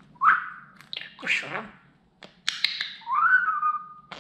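Budgerigar warbling: short rising whistles mixed with clicks and scratchy chatter, ending in a longer whistle that rises and then holds.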